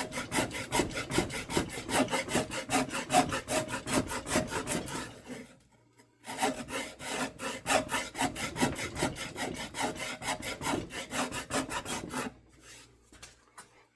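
Rapid back-and-forth strokes of a hand tool cutting wood, at about five strokes a second, as flats are worked onto an axe handle to make an octagon. The strokes pause briefly a little before halfway, resume, and stop shortly before the end.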